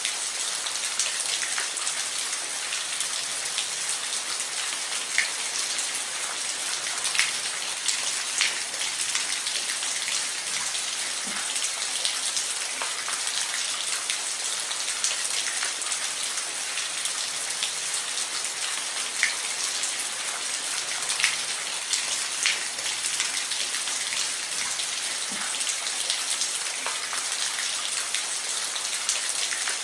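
Steady rain falling on a roof: an even hiss with scattered individual drops ticking sharply.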